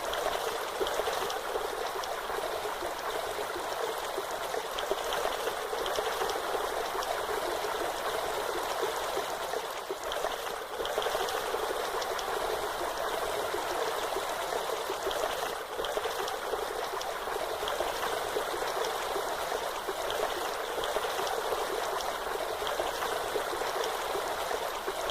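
Waterfall: a steady, unbroken rush of falling water, a hiss with little low rumble.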